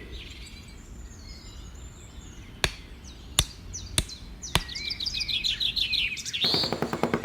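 Small birds chirping, with four sharp taps about a second apart in the middle; guitar music comes in near the end.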